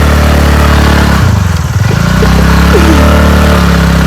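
Motor scooter engine pulling hard up a steep climb; its note drops about a second in, then rises back and holds steady.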